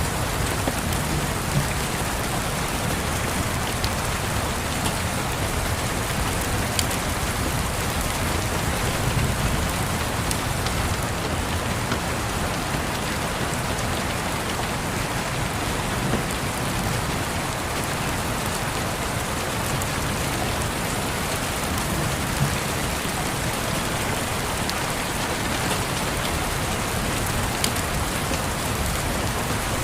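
Steady rain pattering, with a handful of sharp pops from a crackling wood fire and a low rumble of distant thunder underneath.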